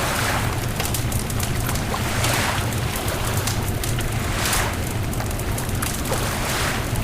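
A beach bonfire crackling, with many small sharp pops over a steady low rumble. Broad swells of hiss rise and fall about every two seconds.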